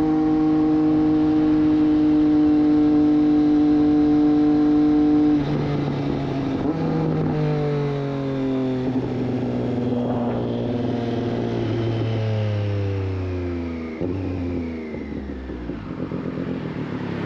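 Triumph Street Triple 765 RS inline-three engine through a Racefit Growler full exhaust, holding a steady high note for about five seconds. The throttle then closes and the engine note falls away in several steps as the bike slows.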